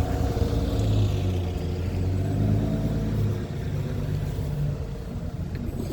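Diesel bus engine running, its pitch shifting in steps as it works, easing off after about three and a half seconds.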